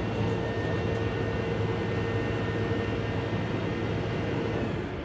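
Large vehicle's diesel engine running steadily, with a low hum and a steady whine over it, dropping away near the end.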